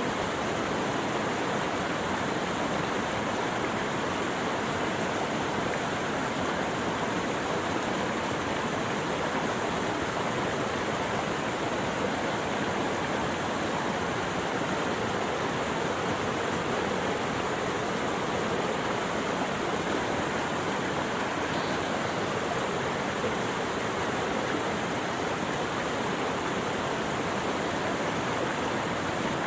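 Steady rushing water, an even unbroken wash of noise.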